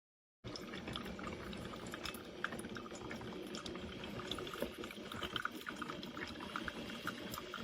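Liquid coffee running and trickling steadily, with many small bubbly pops and crackles; it starts abruptly about half a second in.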